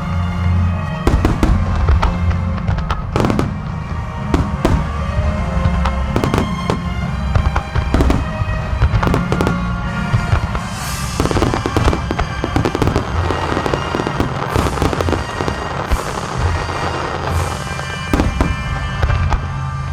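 Large display fireworks: shells bursting in quick succession with sharp booms over music, and from about eleven seconds in a dense hiss of crackling stars beneath the bursts.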